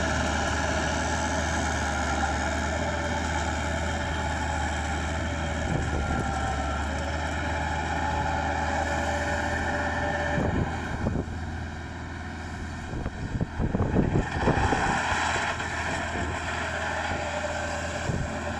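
Crawler tractor's engine running steadily. A little past halfway there are stretches of louder, irregular clatter and knocking.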